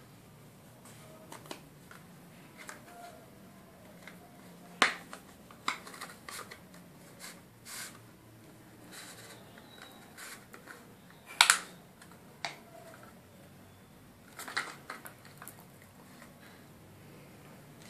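Scattered, irregular clicks and light knocks, like small objects being handled, with a few louder taps about five, eleven and fourteen seconds in.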